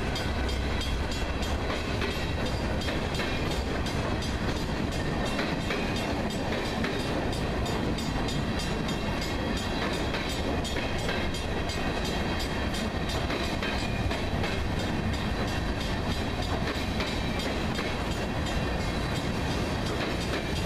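Mixed freight train's cars rolling past: a steady noise of steel wheels on the rails, with faint, regular clicking.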